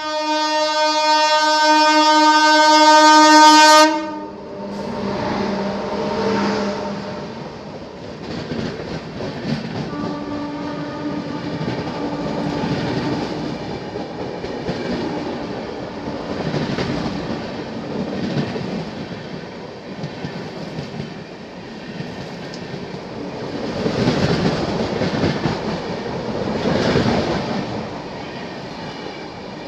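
A train horn sounds loud and steady for about four seconds, then cuts off suddenly. After it, a passing passenger train's coaches rush by close alongside on the next track, a rumbling clatter that swells and fades in waves.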